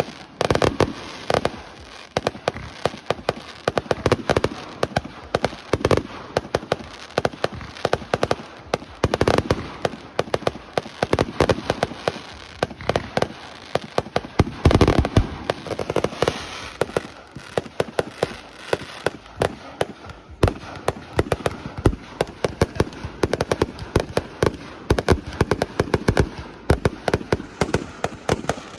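Aerial fireworks going off in rapid succession: a near-continuous barrage of sharp crackling reports, with heavier deep booms about a second in and again around the middle.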